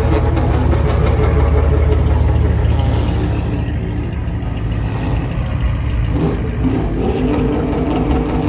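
Truck engines running: a deep, steady engine drone that eases off about three seconds in, then another engine note coming up around six seconds.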